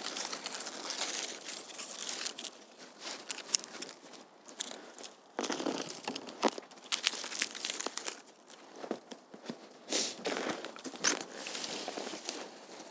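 Irregular crunching and crackling of snow and dry wood being handled during firewood gathering, with scattered sharp snaps of dry spruce twigs.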